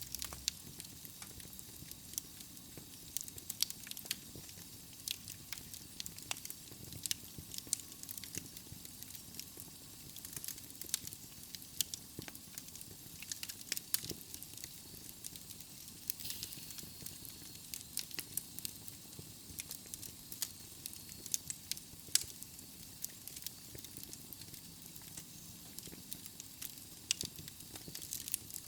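Wood logs burning in a fireplace: irregular sharp crackles and pops over a steady soft rush of flame. A faint high whistle comes in for a few seconds past the middle.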